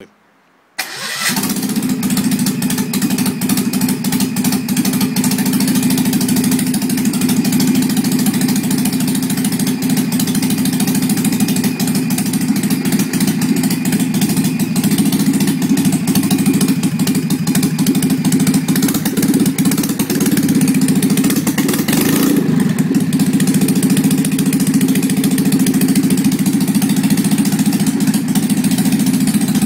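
Citroën 2CV air-cooled flat-twin engine being restarted after a restoration: it catches abruptly about a second in and then runs steadily. There is a brief burst of noise about three quarters of the way through.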